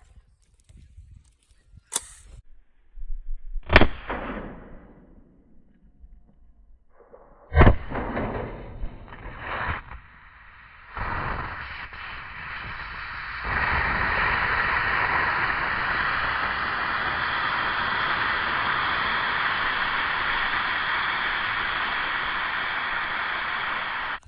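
AR-15 rifle shots: two loud, sharp reports about four seconds apart, each fading with an echoing tail. From about eleven seconds in, a steady rushing hiss takes over and grows louder, holding to the end.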